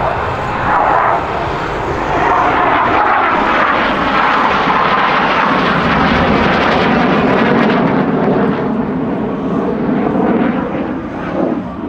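BAE Hawk T.65A jet trainers with Adour turbofan engines making a display pass: loud, steady jet engine noise whose pitch slides lower partway through as the jets go by, fading a little near the end.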